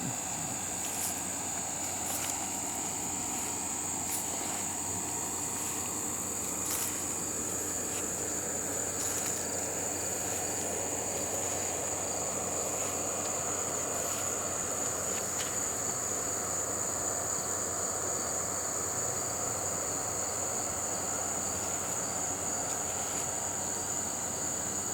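Insects chirring in one steady, unbroken high-pitched drone, with a few faint clicks.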